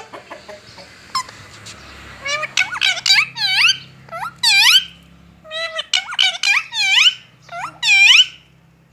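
Parrot calling in a string of short, high, pitched calls in several bursts, each call dipping and rising in pitch.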